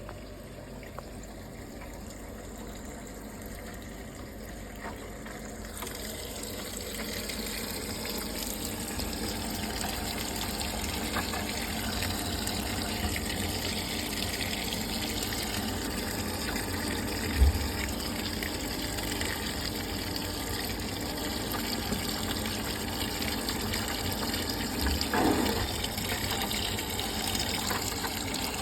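Midea 14 kg washing machine filling with water: a steady rush of incoming water that grows louder about six seconds in, with one short thump about halfway through.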